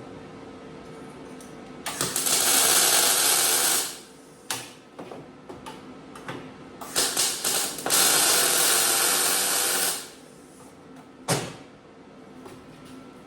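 Welding on sheet steel in two runs of about two seconds each, the second started with a few short stuttering tacks. A sharp click follows near the end.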